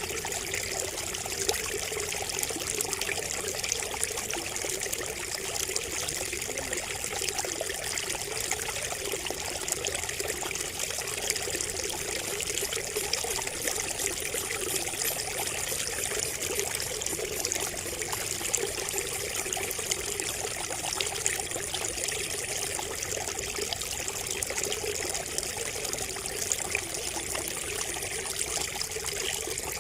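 Water trickling and splashing steadily from a bamboo spout, a continuous babble of small splashes.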